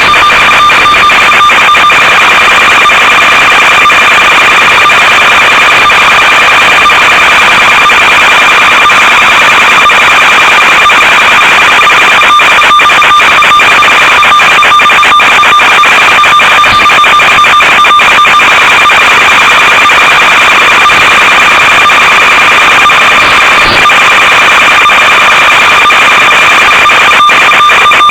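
A loud, unchanging electronic buzz with a steady high tone and constant crackle, the kind of noise an analog FPV video receiver records on its audio channel. Its pitch never shifts.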